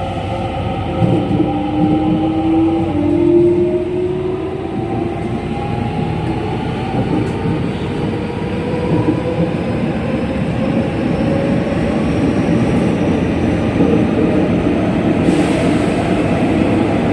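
JR West 207 series electric train's traction motors, still at their original unmodified pitch, whining with several tones that climb steadily as the train accelerates, over the rumble of wheels on rail. A short hiss rises in the upper range near the end.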